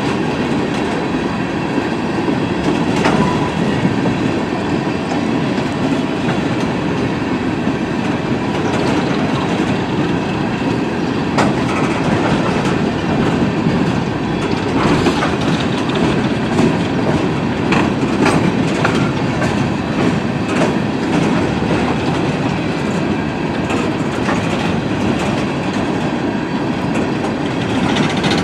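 Railroad cars rolling steadily past, steel wheels rumbling and clicking over the rail joints.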